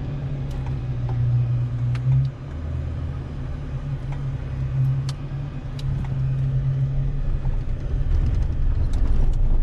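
Vehicle engine pulling up a steep climb out of a river spot, a steady low drone with scattered clicks and knocks, growing louder near the end.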